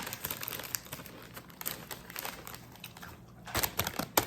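Miss Vickie's kettle-cooked potato chips crunching as they are chewed: a quick, irregular run of crisp cracks that gets louder near the end.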